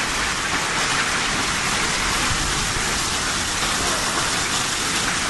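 Steady hiss of heavy rain pouring down.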